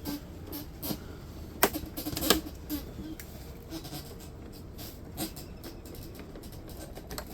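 Scattered clicks and knocks of dehumidifier parts being pulled apart and handled during scrapping, with two sharper knocks about one and a half and two seconds in, over a steady low hum.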